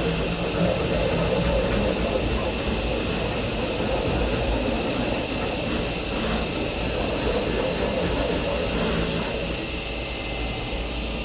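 CNC milling machine cutting slots: a steady high spindle whine with a rough cutting noise under it that varies a little and eases slightly near the end.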